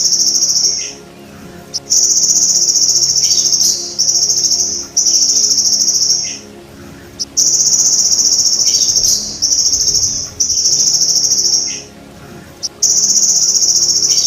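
Belalang emas (golden grasshopper) calling in loud, high, buzzing trills. Each trill lasts about a second, and they come in runs of two or three with short gaps, separated by pauses of about a second.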